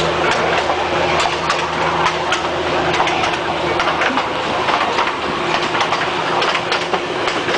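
Train running along the track, heard from an open passenger car: irregular clattering of wheels over the rails over a steady low diesel engine hum.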